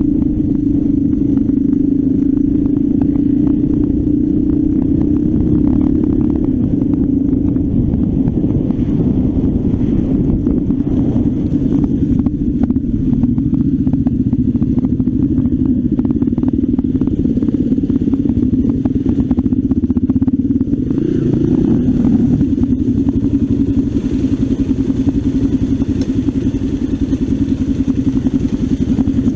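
Trail motorcycle engine running steadily while riding, with the engine note briefly rising about 21 seconds in. Scattered short clicks and rattles sit over it for a stretch in the middle.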